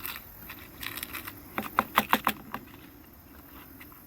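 Small metal fishing hooks and their hook holder being handled: a series of light clicks and rattles, loudest around two seconds in.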